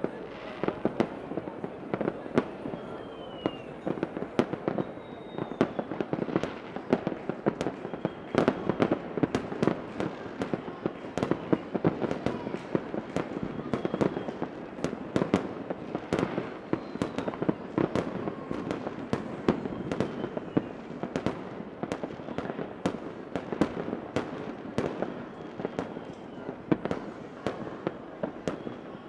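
Fireworks going off without a break: a dense run of sharp bangs and crackles, with a few faint falling whistles now and then.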